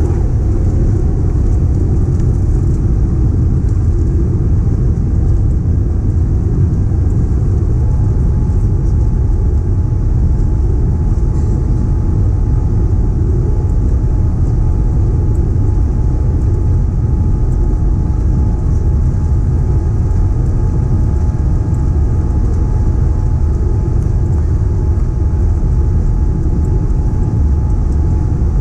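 Boeing 787-9 jet engines at takeoff thrust, heard from inside the passenger cabin as a loud, steady low rumble. A few faint steady engine tones come in about eight seconds in.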